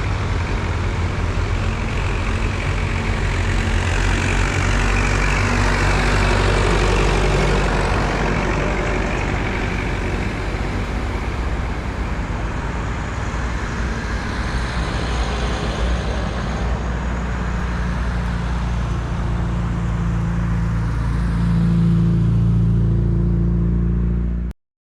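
Vintage tractor engines running steadily on the road, swelling for a few seconds about four seconds in as one passes close. The sound cuts off suddenly near the end.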